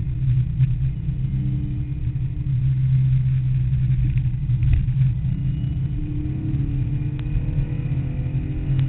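Air-cooled flat-six of a Porsche 911 with a 3.2-litre engine, heard from inside the cabin running hard on track. Its note climbs over the last three seconds or so as the car accelerates.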